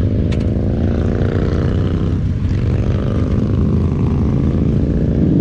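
Motorcycle engine running steadily while riding, a dense low rumble.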